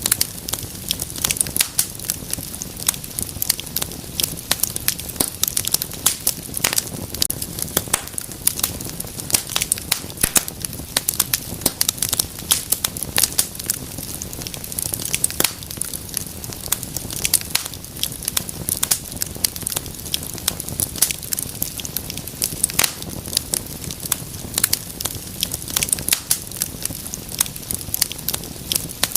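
Wood fire burning in a fireplace, crackling and popping with many sharp irregular snaps over a low steady rumble of flames.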